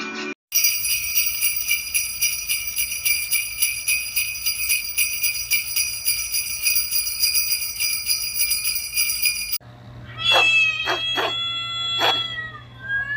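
Jingle bells shaking in a fast, steady rhythm for about nine seconds, cutting off suddenly, followed by several short, high, meow-like animal cries near the end.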